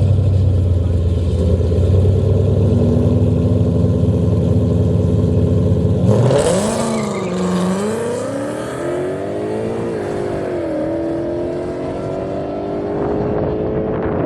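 Car engine held at a steady, loud pitch, then revving hard about six seconds in: the pitch swings up and down, then climbs steadily, dips briefly about ten seconds in as if on a gear change, and climbs again.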